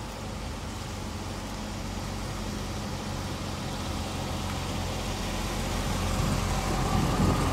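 2014 Chevrolet Corvette Stingray's 6.2-litre V8 running at a low, steady idle-like rumble as the car creeps closer at walking pace, growing louder toward the end.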